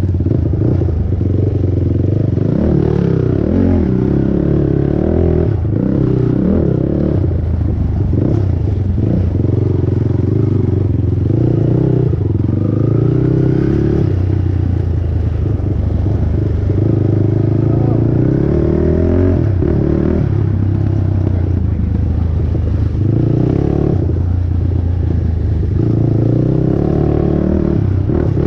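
Honda TRX450R quad's single-cylinder four-stroke engine at race pace, its pitch repeatedly rising and falling as the throttle is worked, with chassis clatter over rough ground.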